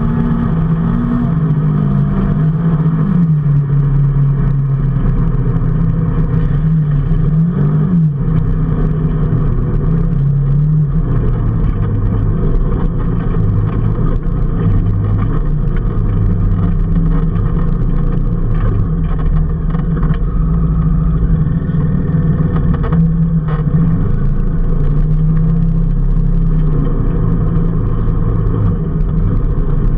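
A road vehicle's engine running while under way, its pitch rising and falling and stepping between levels with the throttle, over a steady bed of road noise.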